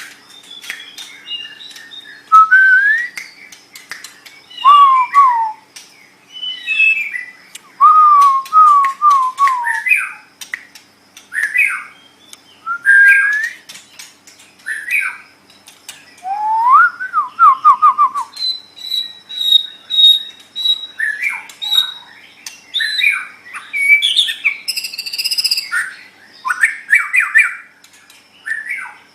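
White-rumped shama (murai batu) singing: varied whistled phrases of rising and falling notes, trills and sweeps, with short pauses between them. Around the middle it holds one high thin note for a couple of seconds, followed by a denser, harsher burst.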